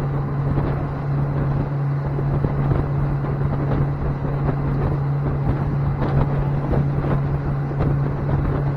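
Boat engine running at a steady drone, with wind buffeting the microphone.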